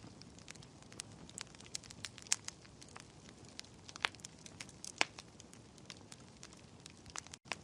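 Fire crackling in a fireplace: irregular sharp pops and snaps over a faint hiss, a few louder pops among them. The sound cuts out briefly near the end.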